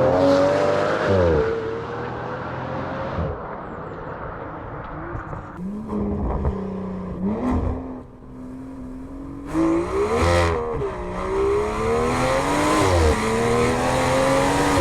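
Aston Martin V12 Speedster's twin-turbo V12, heard through a Quicksilver Titan sport exhaust, accelerating hard through the gears. Its pitch climbs and then drops sharply at each upshift, several times over. A few sharp cracks come from the exhaust in the middle, when the throttle comes off.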